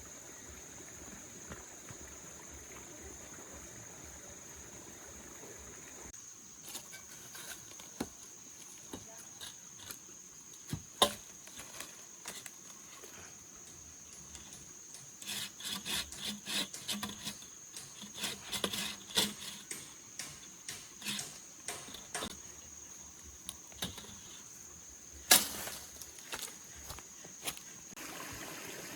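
Wood being handled and worked: scattered knocks, a stretch of scraping and rustling about halfway through, and two sharper wooden knocks, one about a third of the way in and one near the end. A steady high insect drone runs underneath.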